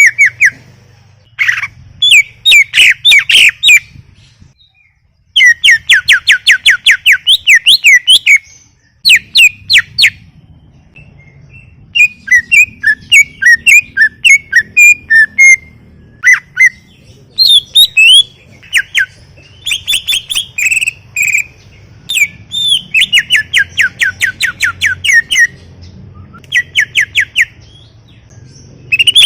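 Cucak ijo (greater green leafbird) singing in full voice: loud runs of rapid chirps and trills, several notes a second, broken by short pauses.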